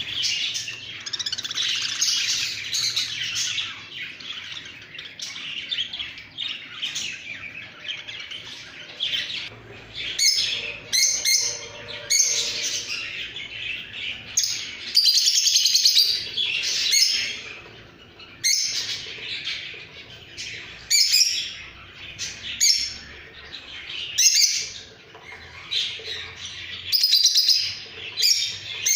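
Several pet birds chirping and calling continuously, in many overlapping high chirps with louder bursts now and then.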